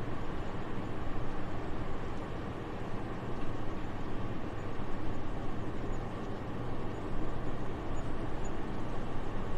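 Soft, steady winter wind: an even airy rush, heaviest in the low end, with gentle swells.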